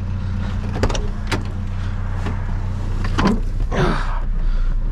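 A vehicle engine running with a steady low drone. A few sharp knocks come about a second in, then a rustling clatter between three and four seconds in.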